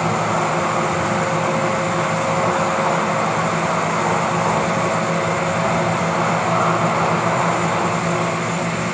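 Inside a Siemens-Duewag U2 light rail car running between stations: a steady rumble of wheels on rail with a low, even hum.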